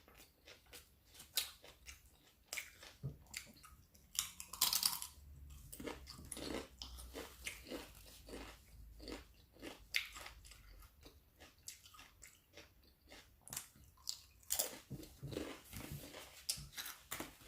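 Close-up chewing and biting of a steak-and-cheese sub sandwich with vegetables: many small wet, crunchy mouth clicks at a low level, with one louder noisy burst about four and a half seconds in.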